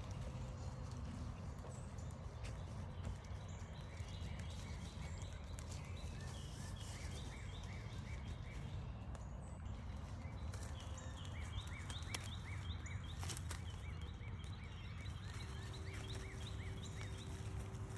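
A songbird singing repeated runs of quick, sliding chirps, two phrases a few seconds apart, over the steady crunch of footsteps on the trail.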